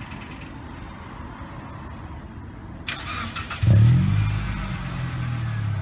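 2008 Mitsubishi Lancer's four-cylinder engine started: the starter cranks about three seconds in, the engine catches with a brief flare in revs, then settles to a steady idle.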